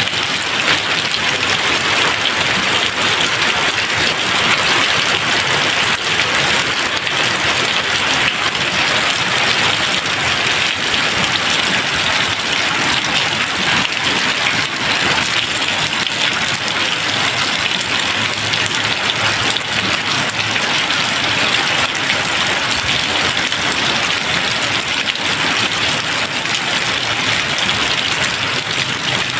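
Steady, even rain falling continuously, a dense hiss of drops with no thunder.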